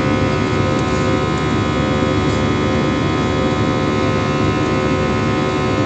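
Airbus A320 jet engines running, heard from inside the passenger cabin: a steady rumble with several constant whining tones, neither rising nor falling.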